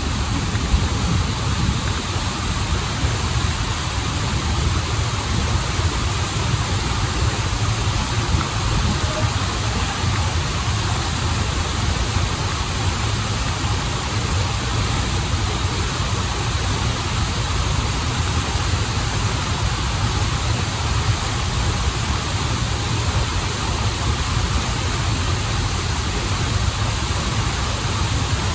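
Waterfall and stream: a steady rush of running water with a low rumble underneath.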